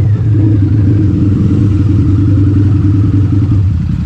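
Harley-Davidson V-Rod's liquid-cooled V-twin engine running steadily at low revs, a loud even beat, easing slightly near the end.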